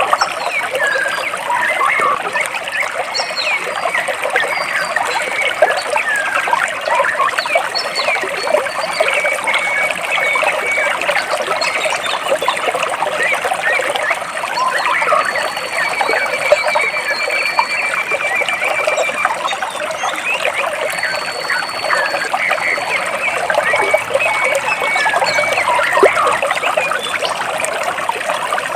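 Stream water running steadily between rocks, with small birds chirping and whistling over it and one bird giving a rapid trill about midway.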